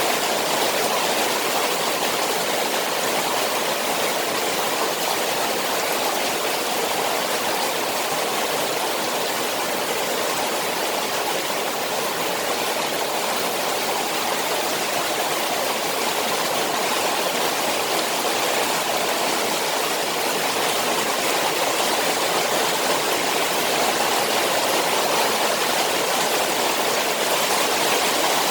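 Rain falling on a koi pond: a steady, even rush of water without breaks.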